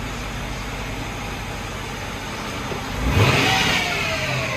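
Car engine idling, then revved once about three seconds in, the revs rising sharply and falling away.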